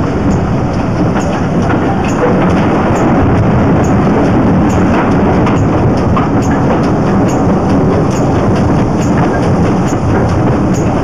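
Train carriages running along the track, heard close at an open carriage window: a loud steady rumble with a short regular click a little more than once a second.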